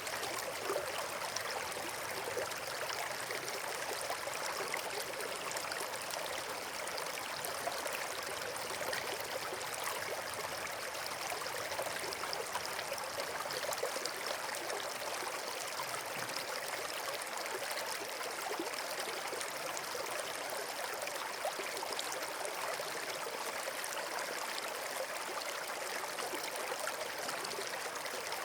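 Steady rush of flowing water, with many fine crackling ticks through it and no change in level.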